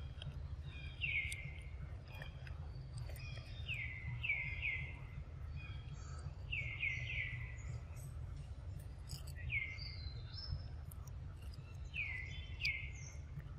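A bird calling again and again with short notes that slide downward, heard singly or in quick runs of two or three every couple of seconds, over a steady low background rumble.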